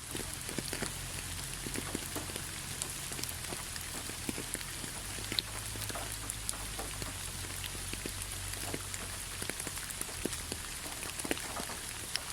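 Steady rain falling, with many separate drops landing close by as sharp, irregular ticks over an even hiss, and a faint low rumble underneath.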